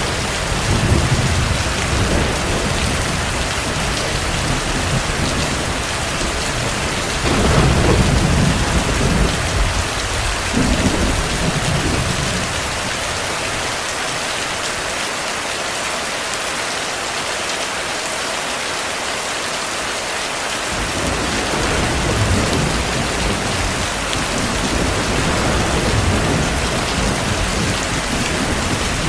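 Heavy rain falling steadily with low rolls of distant thunder. The rumbling is strongest about seven to twelve seconds in, drops away in the middle, and comes back in the last third.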